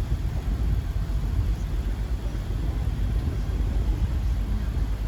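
Low, steady rumble of a river tour boat under way, its engine running.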